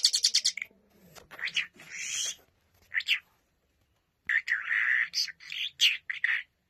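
Birds calling: a fast chattering trill at the start, then short high calls, a pause of about a second, and another quick string of calls.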